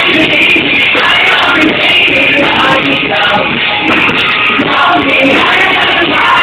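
Rock band playing live with a singer, loud and continuous.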